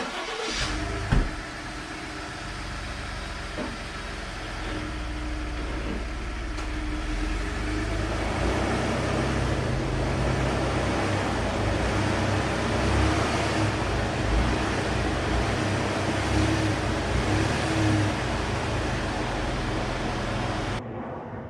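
Ford F-150's 2.7 L EcoBoost V6 engine running steadily as the truck is driven, with a sharp knock about a second in.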